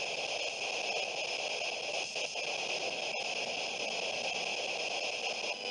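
Steady static hiss, like a radio tuned between stations, with a single faint click about three seconds in.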